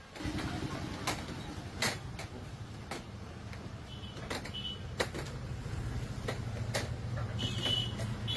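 Factory machinery running with a steady low hum, broken by irregular sharp knocks and clanks, and a couple of brief high squeals, during pipe manufacturing.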